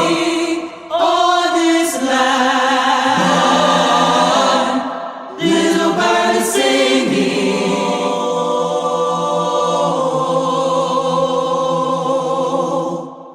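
Choir-style layered voices singing held notes in harmony, closing on a long sustained chord that fades out near the end.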